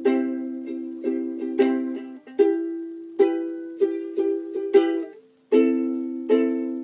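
Instrumental break in a song: chords strummed on an acoustic plucked-string instrument, each ringing and fading, roughly one strum every 0.8 seconds, with a brief stop about five seconds in. There is no singing.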